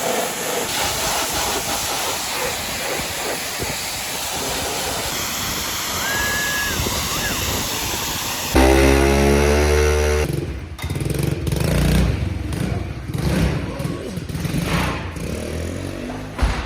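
Pit bike engine and wind noise while riding. About halfway through, a louder engine sound cuts in suddenly and then rises and falls unevenly.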